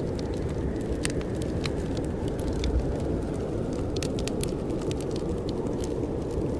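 Wood fire crackling in a fireplace, with irregular sharp snaps, over a steady low rumble of blizzard wind outside.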